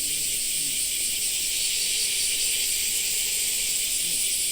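A steady high hiss, even throughout.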